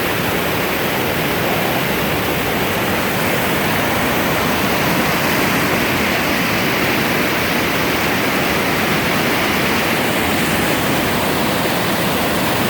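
Steady rush of the Chattahoochee River's moving water, an even unbroken roar of whitewater.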